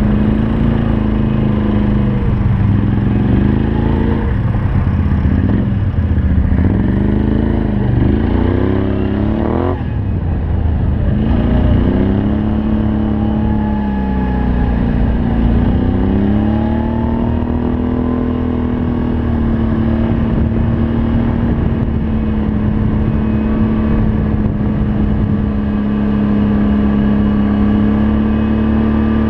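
Can-Am Outlander 500 ATV engine running through an aftermarket Yoshimura exhaust, revving up and down repeatedly under throttle, with one sharp high rev that drops away near the middle. It then settles into a steady, even pitch for the second half.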